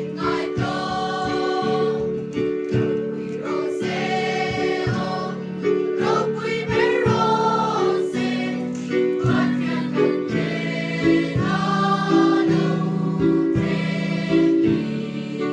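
A group of voices singing a song together over sustained instrumental chords.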